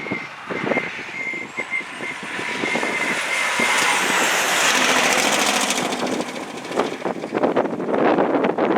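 A fire truck driving past, its engine and tyre noise swelling to a peak about halfway through and then easing. Wind buffets the microphone in the last couple of seconds.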